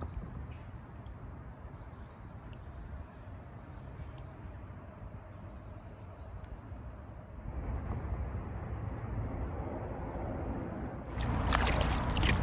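Kayak paddling on a river: the paddle dipping and water washing along the hull, over a steady low rumble. It grows louder about halfway through and louder again near the end.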